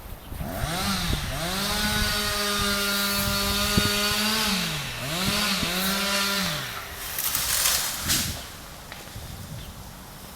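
Chainsaw revved up to a high, steady full-throttle pitch. Its pitch dips and recovers twice around the middle, then it falls back to idle for the last two seconds or so.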